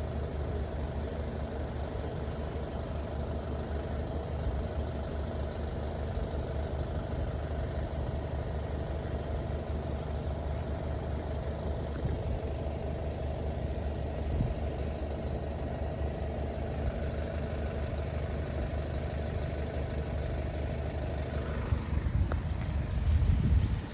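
An engine idling steadily, with a louder surge starting about 21 seconds in that cuts off sharply just before the end.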